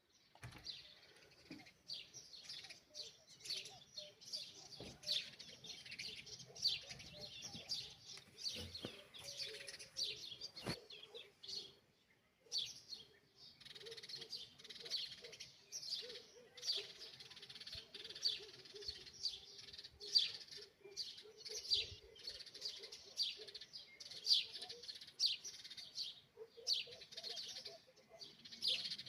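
Many small birds chirping together in a dense chorus of short, high chirps, several a second, with a brief lull about twelve seconds in.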